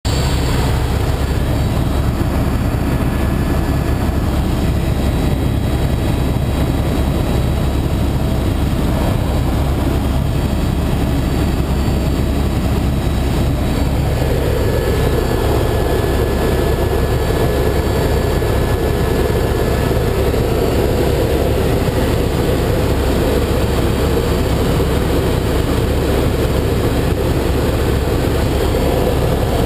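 Helicopter in flight: a loud, steady engine and rotor drone, with a higher hum joining about halfway through.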